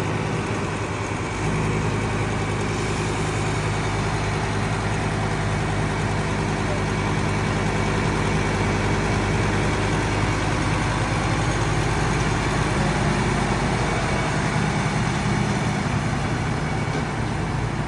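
A heavy engine idling steadily: a low, even hum with a hiss over it.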